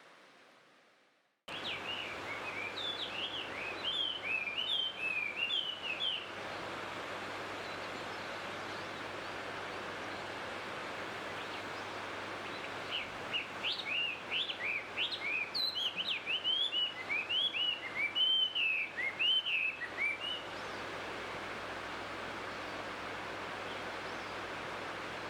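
A songbird singing, two runs of rapid chirping phrases, over a steady outdoor rushing noise that starts abruptly about a second and a half in.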